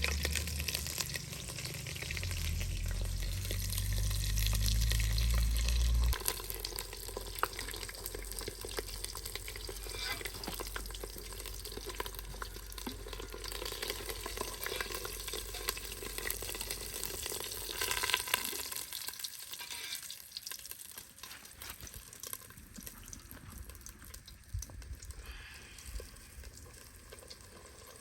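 Food frying in hot oil: a steady crackling sizzle that eases off in the second half. A low rumble underlies the first six seconds and cuts off suddenly.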